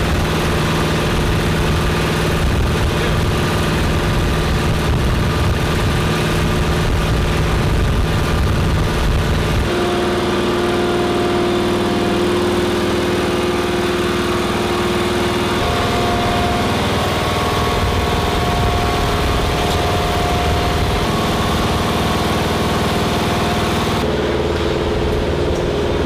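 Engine running steadily with a low rumble and held tones; the pitch and tone change abruptly a few times.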